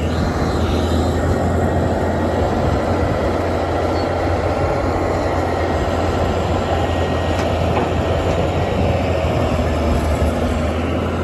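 Pickup truck running, a steady low engine hum under a dense, even rumble that holds at one level throughout.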